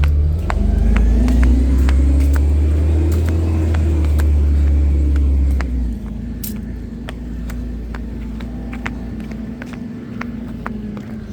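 Garbage truck engine running hard with a deep rumble, its pitch rising and then holding, before dropping back to a quieter run about six seconds in. Scattered sharp clicks and knocks are heard throughout.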